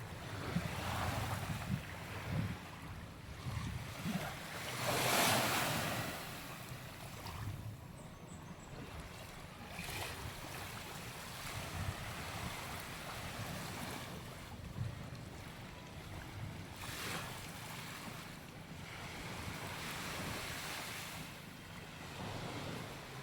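Sea waves breaking and washing up on a beach, swelling and fading every few seconds, the loudest about five seconds in, with wind buffeting the microphone.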